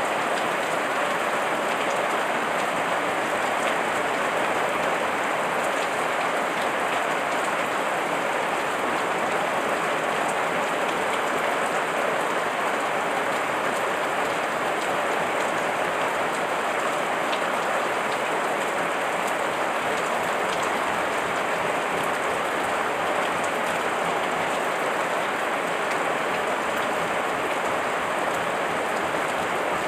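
Heavy rain falling steadily, a dense even hiss with the fine patter of drops on leaves.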